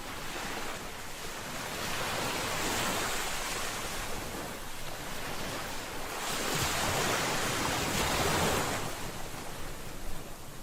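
Sea waves breaking and washing in, in two swells of surf, the second rising about six seconds in.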